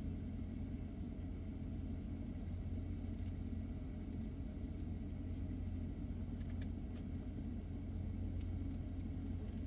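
Steady low rumble of a car's engine idling, heard from inside the cabin, with a few faint small clicks and rustles.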